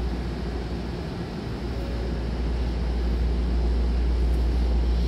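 Steady low rumble and hum of a Hankyu commuter train standing at the platform with its doors open, its onboard equipment running while stopped.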